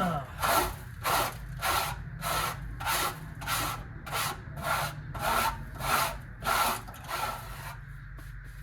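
Steady back-and-forth strokes of a hand tool scrubbing bare car-body sheet metal, about a dozen strokes at a little under two a second, ending near the end. It is done to clear the surface and expose the factory spot welds. A low steady hum runs underneath.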